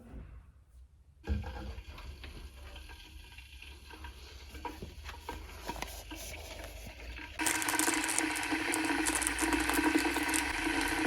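Light clicks and handling sounds of kitchen work, then a steady hiss that starts suddenly about seven seconds in.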